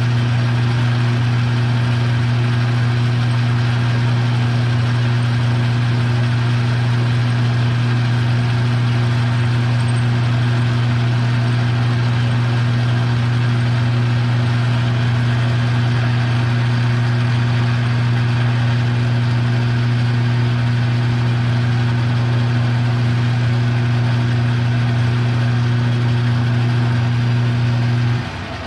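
Electric motor of a metal-working shop machine running steadily under a light cut with a strong, even hum; it is switched off about a second before the end and the sound drops away as it spins down.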